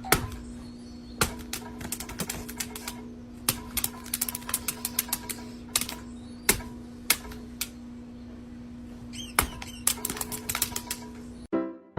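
Irregular sharp clicks and taps, some in quick runs, over a steady low hum. Just before the end the sound cuts off abruptly.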